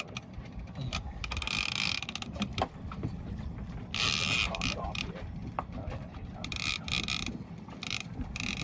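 Heavy fishing reel being cranked against a hooked shark, its gears and drag clicking, with louder bursts roughly every two to three seconds.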